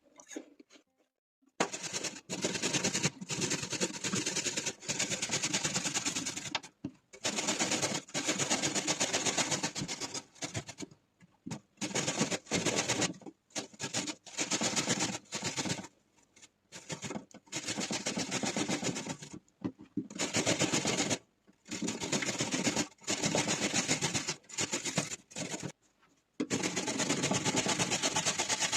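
Rapid mechanical rattling in repeated bursts of one to four seconds, with short pauses between them: a kitchen tool or small appliance at work.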